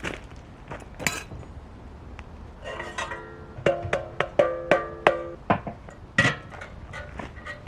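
Camp cookware being handled: scattered light knocks, then a run of clinks and knocks in the middle that ring briefly with pitched tones.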